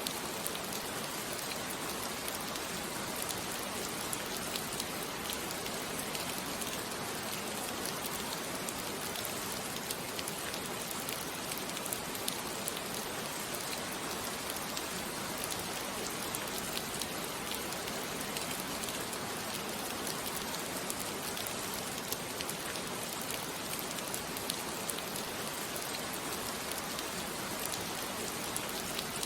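Steady rain falling, an even hiss with many fine drop patters, no thunder.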